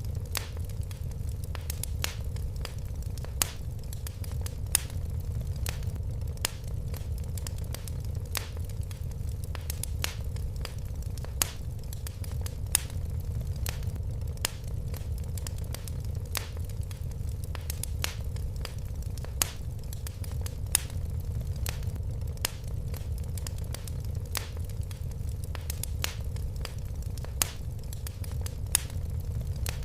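Wood fire crackling: irregular sharp pops and snaps a couple of times a second over a steady low rumble of the flames.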